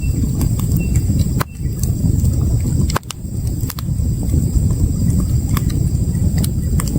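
Campfire crackling with irregular sharp pops and snaps, over the steady low rush of river water.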